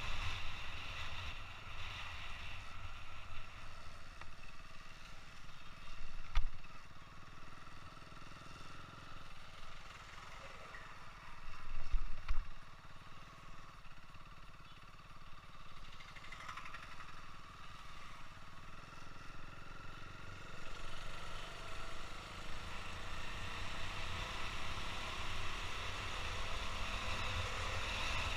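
Motorcycle riding heard from a helmet-mounted camera: a steady engine and wind rush, with two brief thumps partway through and the noise growing louder near the end.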